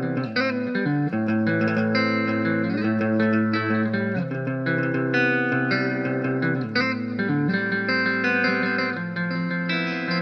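Guitar playing a tune: plucked notes changing every second or so over sustained low notes.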